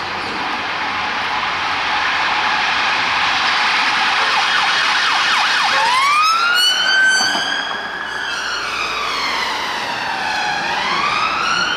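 Police escort siren: a steady loud rushing noise, then a quick burst of short yelping sweeps about five seconds in, then a slow wail that rises, falls and rises again.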